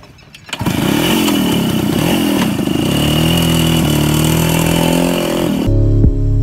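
Two-stroke engine of a 1977 Suzuki 100cc motorcycle starts up suddenly and runs, its pitch rising and falling as it is revved. Near the end it cuts off abruptly into steady outro music.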